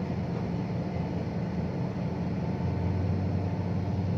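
Diesel dump-truck engine running steadily with a low, even drone.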